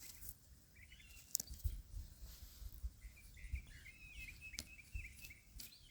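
Birds chirping faintly, a quick run of short high chirps through the middle, with a few soft knocks and clicks.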